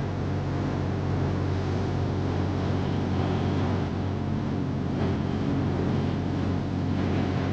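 Light single-engine propeller airplane's piston engine running at a steady power setting, a constant drone with airflow hiss over it.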